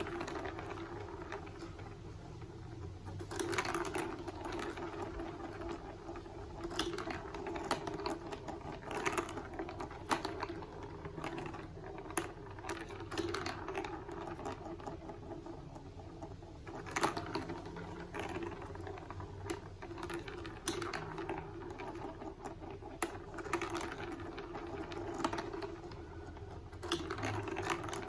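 Marbles rolling and clattering through a plastic building-block marble run: a steady rolling rumble with frequent sharp clicks as marbles drop and knock against the track pieces.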